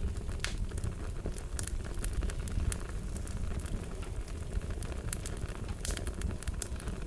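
Fire crackling: a steady low rumble with scattered sharp pops and snaps, a cluster of them near the end.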